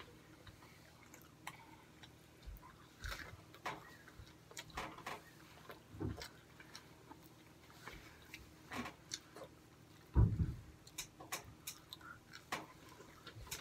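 People chewing and biting fries and chicken nuggets: scattered soft clicks and crackles, with a rustle of a plastic bag and one louder thump about ten seconds in.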